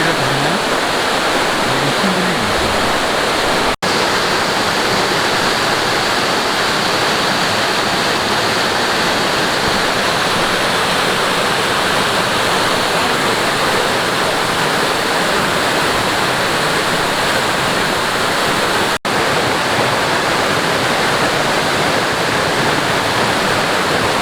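Mountain stream rushing over rocks, a loud, steady rush of water close by, cut out for a split second twice.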